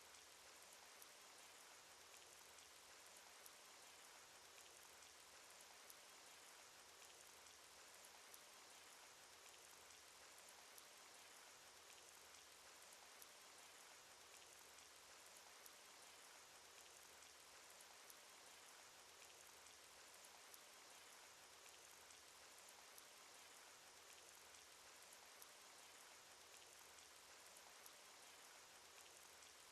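Cartoon rain sound effect: a faint, steady hiss of rainfall with scattered drop ticks.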